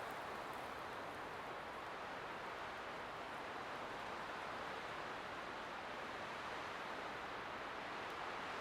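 Light wind blowing steadily, an even rushing hiss with no gusts or other sounds.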